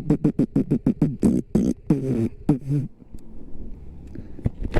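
A man's voice making a rapid string of short pitched vocal sounds, about seven or eight a second, for close to three seconds, then breaking off into a low background hum with a few clicks.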